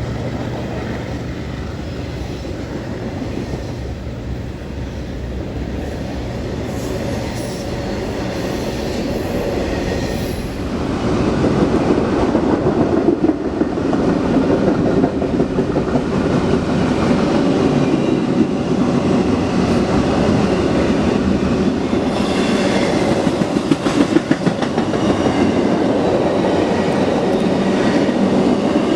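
CN freight train passing: a steady low rumble for the first ten seconds, then, about ten seconds in, a louder rolling clatter of railcar wheels over the rail joints.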